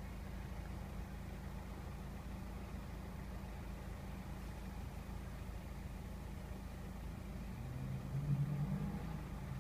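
Car engine idling steadily, a low rumble heard from inside the cabin. A brief low hum rises over it about eight seconds in.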